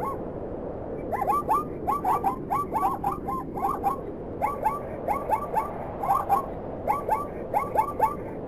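Zebra barking: a fast run of short, high yelps, each rising then dropping in pitch, coming in groups of two to four with a few brief pauses, over a steady low background noise.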